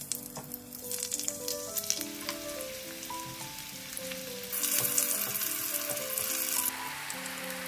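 Zucchini slices sizzling in hot oil in a frying pan as they are laid in one by one. The sizzle grows louder for about two seconds past the middle, then drops back.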